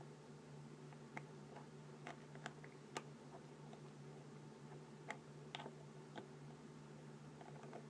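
Faint, scattered clicks and taps from handling a small eye-cream container, about a dozen light knocks at uneven intervals, over a steady low hum.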